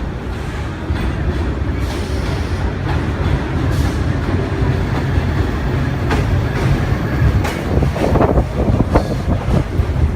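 Vintage IND R1/R9 subway train pulling into the station: a heavy rumble that grows louder, with the wheels clacking over rail joints in the second half.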